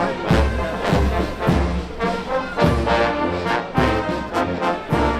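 Marching brass band playing, with trombones and trumpets over a steady bass drum beat.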